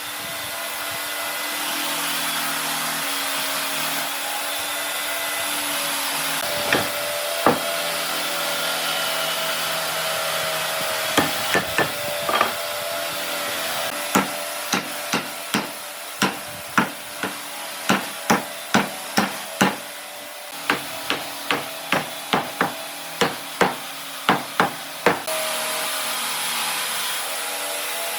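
Hammer striking wood: two knocks, then after a pause a long run of sharp blows about one to two a second that stops a few seconds before the end, over a steady workshop hum.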